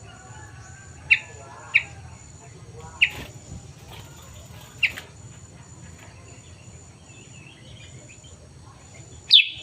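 Caged kutilang sutra, a black-and-yellow bulbul, giving short sharp chirps: five loud single notes spaced irregularly, two close together about a second in, then one at three seconds, one near five and one near the end, over a steady low hum.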